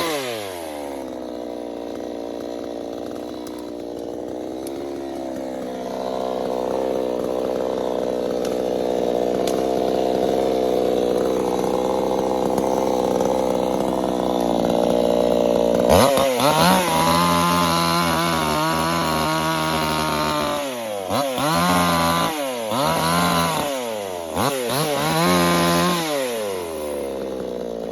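Two-stroke chainsaw engine dropping back to idle, then running at a steady part throttle for several seconds. About halfway through it revs sharply to full throttle and is blipped up and down four or five times before settling back to idle near the end.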